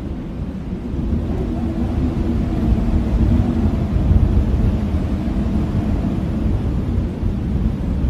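Blizzard wind blowing hard with a deep rumble and a low, wavering howl. It gusts stronger about a second in and stays strong.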